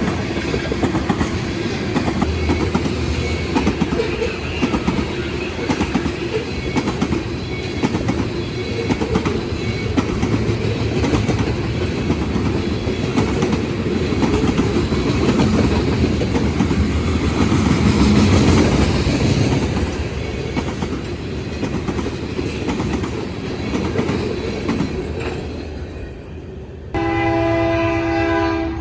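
Train cars rolling past with a steady clatter of wheels over the rail joints, easing off near the end. A locomotive horn then sounds one chord of several tones, held for about two seconds.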